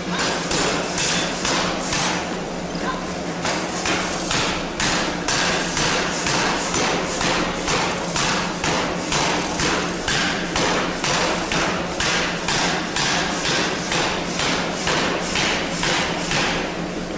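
Forging hammer striking steel in a steady rhythm of about three blows a second, over a steady low hum.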